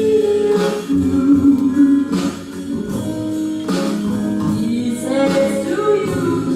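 A young girl singing a ballad in Japanese over guitar and backing instruments, with long held notes.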